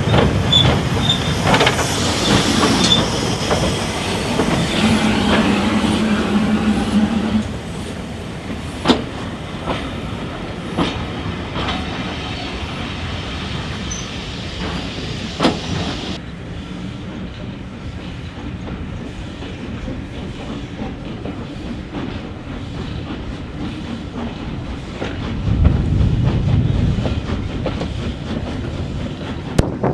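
Railway train moving through a station: wheels clattering with high squeals, a steady hum and several sharp single knocks, then a low rumble swelling near the end.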